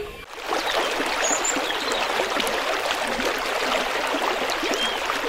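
Water running steadily in a stream, an even rushing, beginning a moment in after a brief dip, with a few faint high chirps over it.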